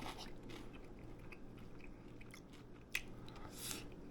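A person chewing a mouthful of cheese-topped tater tots: soft mouth sounds with scattered small clicks, and one sharper click about three seconds in.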